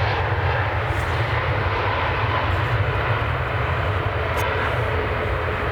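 Jet airliner engines running with a steady, deep rumble, loud and unbroken.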